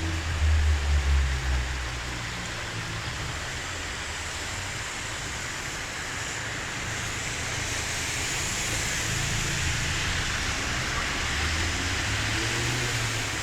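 Steady hiss of heavy rain and rushing floodwater running off a street where the storm drains are overwhelmed. A low hum sits under it for the first couple of seconds and returns faintly near the end.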